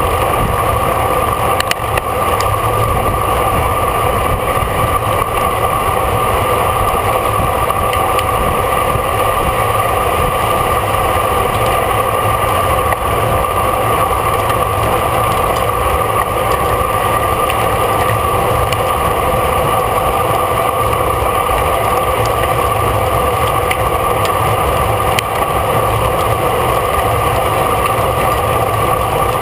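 Steady wind and road noise on a camera riding on a racing bicycle, with a constant hum that does not change.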